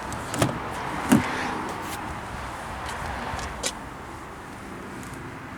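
Car door knocks and shuts on a Volvo V60 wagon: three sharp knocks, the loudest a low thud about a second in.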